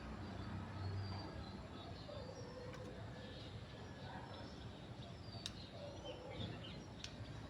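Faint bird chirps over background noise, with a couple of sharp clicks in the second half.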